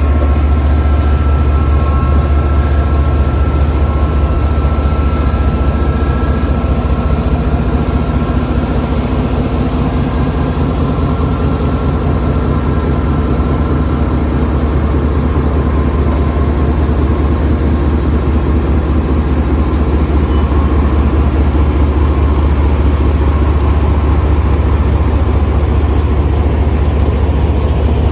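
Diesel-electric locomotive engine running under load as a passenger train pulls out, a heavy steady rumble. A whine sits on top for the first half and fades out about halfway.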